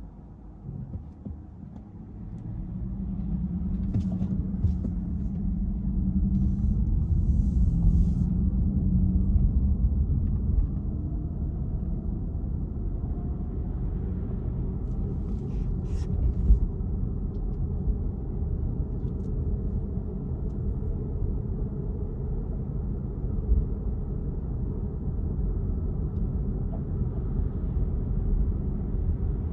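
Car driving, its engine and tyres making a low rumble. It is quieter at first, then grows louder over a few seconds from about two seconds in as the car gets going, and then holds steady.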